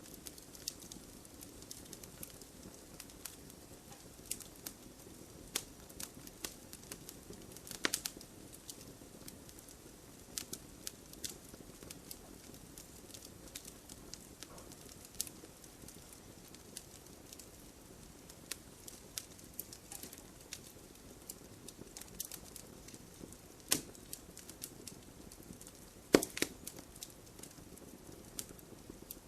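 Open wood fire crackling: irregular snaps and pops over a low steady hiss of burning, with a louder pop about eight seconds in and another cluster of loud pops near the end.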